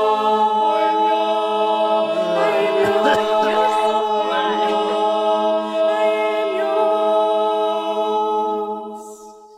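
A group of singers holding the long final chord of a worship song, a cappella, the voices sustained together and then fading out near the end.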